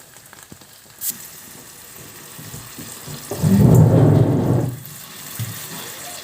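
Vinegar sizzling and bubbling in a hot pan of fried garlic and ghee. About three seconds in it surges up loudly for a second and a half, and there is a sharp click about a second in.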